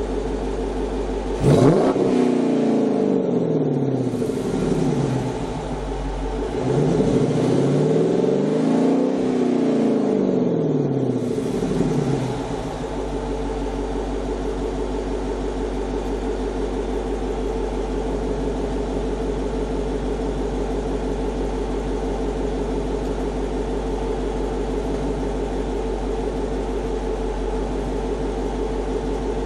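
A 5.7-litre HEMI V8 breathing through a Corsa Xtreme cat-back exhaust and JBA shorty headers, idling and revved twice: a quick blip about a second and a half in, then a slower rev held for a couple of seconds around eight seconds in. It settles back to a steady idle for the rest.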